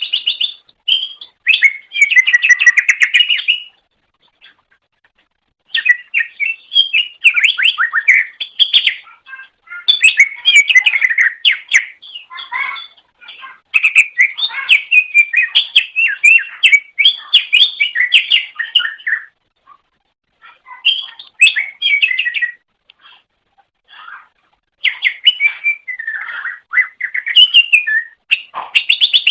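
Cucak ijo (green leafbird) singing long phrases of rapid, varied chirps and whistles, broken by short pauses of one to two seconds.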